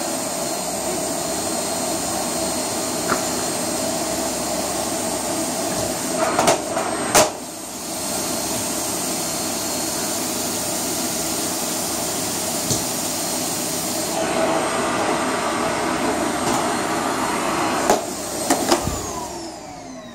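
Vacuum cleaner running steadily with a high whine, with a few knocks as it bumps about. Near the end it is switched off and its whine falls away as the motor spins down.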